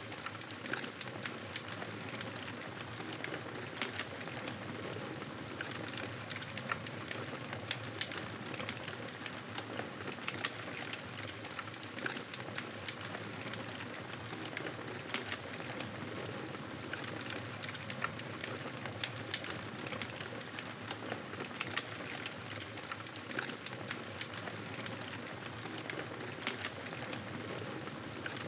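Campfire crackling, with frequent small pops and snaps over a steady hiss.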